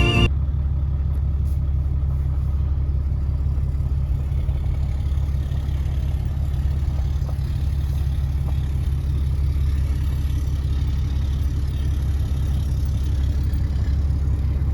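A vehicle engine running steadily with an even low rumble.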